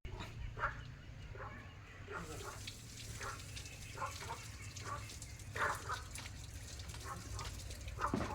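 Scattered short animal calls, a dozen or so, over a steady low background noise.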